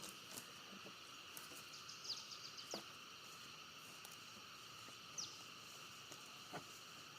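Faint steady insect chorus, with a few short, quick downward chirps and scattered light clicks.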